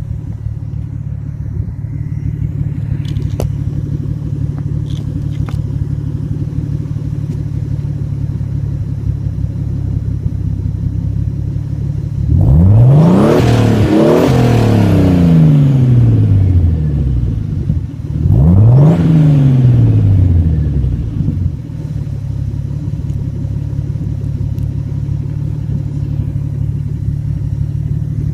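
Datsun 280ZX Turbo's L28ET turbocharged straight-six idling steadily through a 2.5-inch exhaust with a Vibrant resonator and Magnaflow 10461 muffler. It is revved twice: a long rise and slow fall about halfway through, then a second, shorter rev a few seconds later, before settling back to idle.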